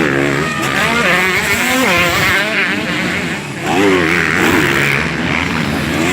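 Several motocross bikes running hard, their engines revving up and down so the pitch rises and falls over and over.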